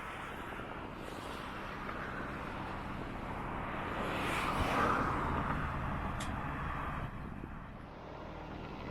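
A motor vehicle passing by: its tyre and engine noise swells to a peak about halfway through, then fades away.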